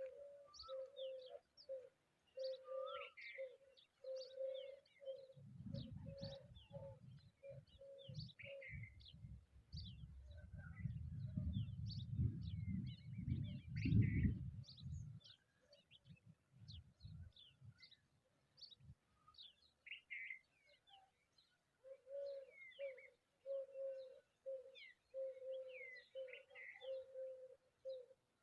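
Wild birds chirping all around in many short high notes, with a low note repeated about twice a second through the first third and again near the end. A low rumble comes in about five seconds in and swells to its loudest near the middle before fading out.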